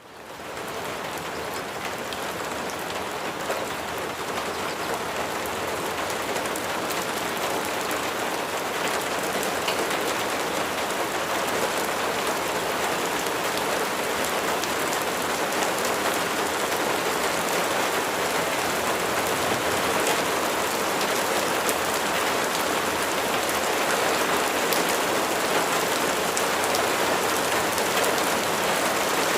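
Steady rain falling, an even hiss of drops pattering on a surface, fading in over the first second or so.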